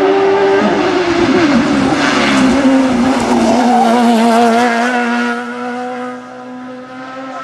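Hillclimb race car engine running hard as the car passes: its pitch drops sharply as it goes by, then holds and climbs slowly, fading after about five and a half seconds.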